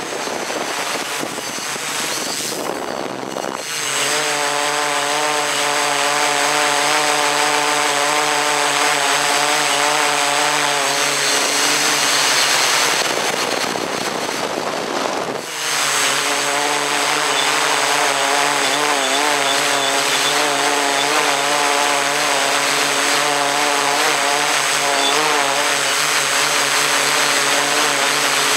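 Motors and propellers of a radio-controlled camera aircraft running steadily, heard close up from the onboard camera. The pitch wavers slightly with throttle, and the droning tone drops out for a moment at about 4 s and again at about 15 s.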